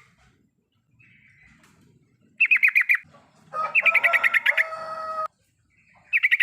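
Sooty-headed bulbul (trucukan) chattering in the 'riwikan' style: short bursts of fast, rapidly repeated notes, three times, the middle one running into a harsher, buzzier stretch that cuts off suddenly.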